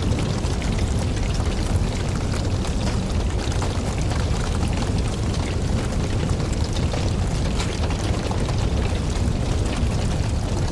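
Wood campfire burning, with a steady low rumble of flames and frequent small crackles and pops from the logs.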